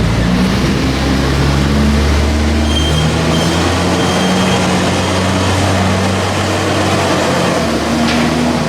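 Heavy diesel engines of farm machinery running, the revs rising and falling a little.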